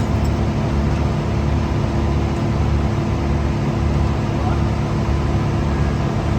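Heavy diesel equipment running steadily at a constant speed, a continuous low drone.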